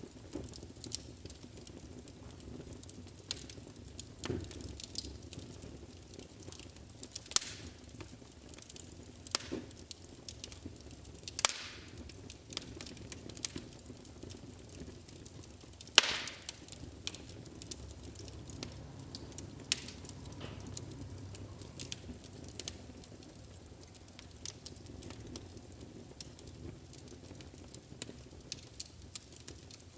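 Wood fire burning in a fireplace: a low steady rumble of flames with irregular sharp crackles and pops of burning wood, a few louder pops standing out.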